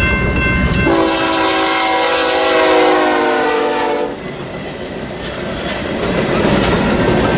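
Freight locomotive horn sounding a multi-note chord that drops in pitch about a second in and cuts off about four seconds in, then the steady rolling clatter of freight cars going by on the rails.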